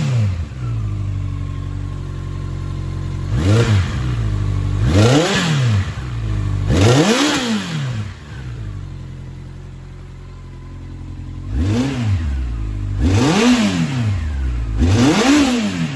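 Honda CB1100's air-cooled inline-four engine idling and being blipped by hand about six times, each rev rising and falling back to idle; a longer stretch of plain idle in the middle.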